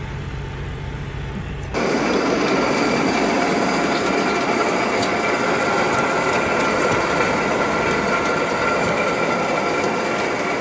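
Load of granular fertilizer unloading from a truck trailer: a steady rattling rush of pouring material and machinery. It starts suddenly about two seconds in, replacing a low engine idle.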